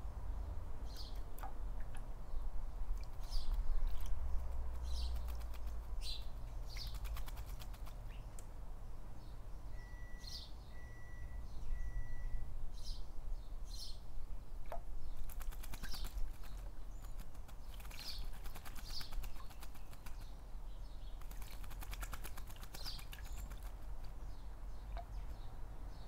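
A blackbird bathing in a bird bath: several bouts of splashing and wing-flapping, with short high chirps scattered between them. A low background rumble runs underneath, and about halfway through there are three short even whistle-like tones.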